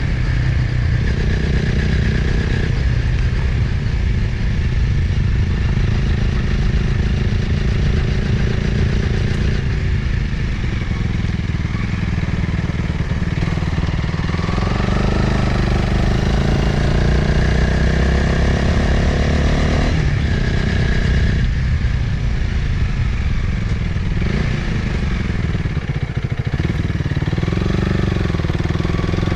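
Motorcycle engine running under way, its pitch rising and falling several times with throttle and gear changes. Wind rushes over the microphone throughout.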